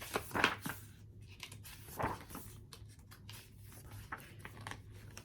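Book pages being handled and turned: two short paper rustles, about half a second and two seconds in, with a few faint clicks.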